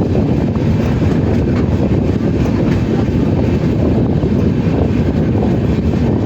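Passenger train running along the track: a loud, steady rumble of wheels and coaches on the rails.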